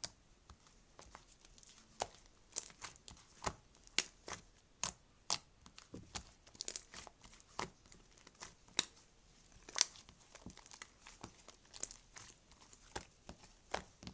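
Irregular sharp crackling and crinkling, a few short ticks a second.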